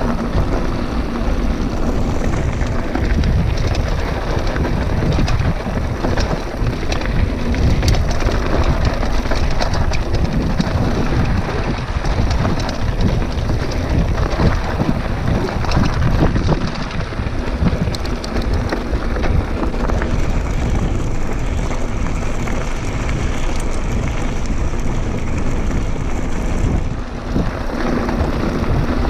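Wind rushing over the microphone of a camera on a moving mountain bike, with the bike and tyres rattling and crunching over a rough dirt trail in many short clicks.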